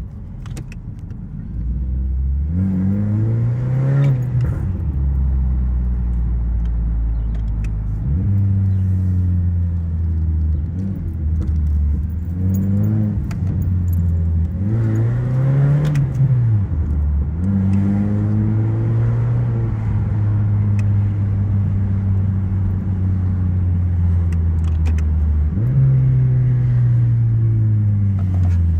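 Exhaust of a 2012 Honda Civic's 1.8-litre four-cylinder, running through a resonator delete and an aftermarket eBay muffler. The revs climb and then drop away several times, with longer stretches of steady running in between.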